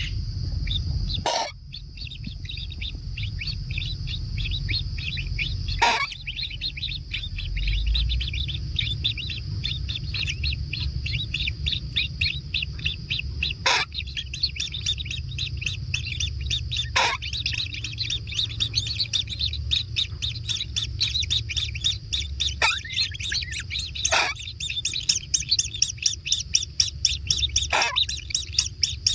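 Kingfisher chicks chirping in a rapid, unbroken stream of short high calls, the begging calls of nestlings being fed, growing denser and louder near the end. About six sharp clicks or knocks come through at intervals, over a steady low rumble.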